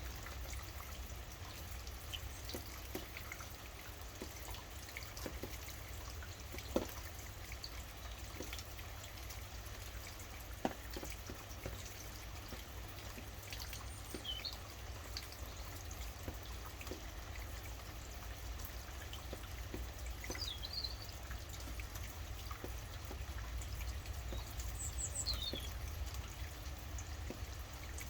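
Steady rain with dripping water and a low, constant rumble, two sharper drips near 7 and 11 seconds. A bird gives a few brief high chirps a handful of times.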